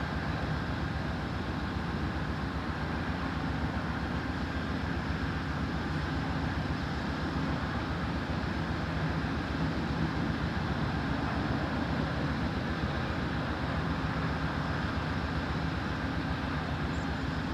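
EMD SW9 switcher locomotive's V12 567 diesel engine running steadily, with an even low drone and no change in pitch.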